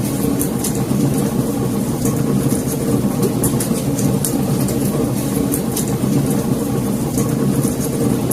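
Wood fire in a fireplace crackling: frequent sharp pops and snaps over a steady low roar.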